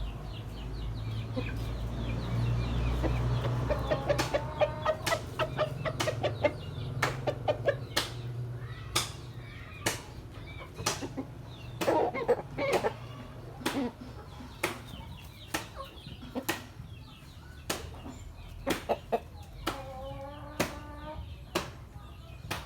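Chickens clucking in short bursts of calls, amid frequent sharp clicks and taps, with a low rumble during the first few seconds.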